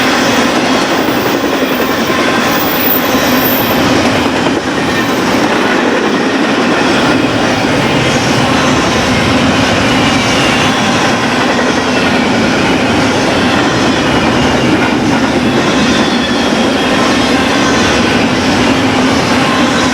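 BNSF intermodal freight train rolling past at track side: a steady, loud rumble and clatter of wheels on rail.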